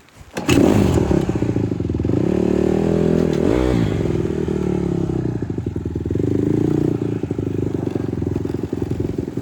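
Honda CRF150R dirt bike's single-cylinder four-stroke engine comes in abruptly about half a second in and keeps running loudly. Its revs dip and pick up again near the middle.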